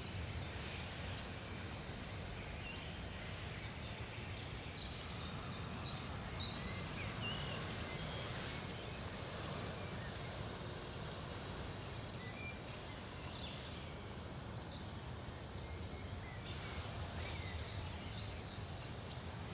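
Scattered short bird chirps and whistles over a steady low outdoor background noise.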